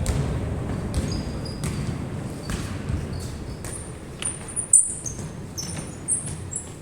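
Basketball game on an indoor court: a ball bouncing, with short high sneaker squeaks on the floor that come thick and fast in the second half, over a low murmur of the hall.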